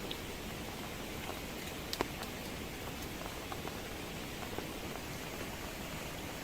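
Heavy rain falling steadily: a continuous hiss with scattered sharper taps of individual drops, the loudest about two seconds in.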